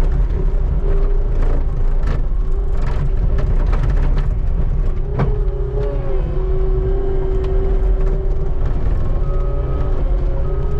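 Skid steer engine running steadily under load with a held whine, while the bucket scrapes snow off pavement with scattered knocks and one sharp clunk about five seconds in.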